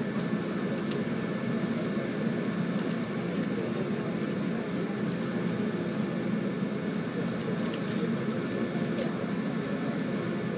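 Steady running noise heard inside a JR 185 series electric train car: the rumble of wheels on rail and the hum of the running gear, with scattered faint clicks.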